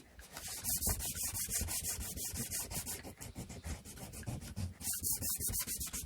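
Sandpaper rubbed back and forth by hand over a wooden inkle loom part in quick, even strokes. The strokes pause briefly at the very start and are lighter for a while in the middle.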